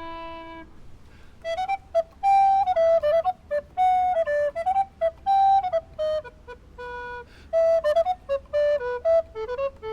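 Recorder playing a Renaissance variation tune: a single melodic line of quick notes in short phrases with brief gaps between them.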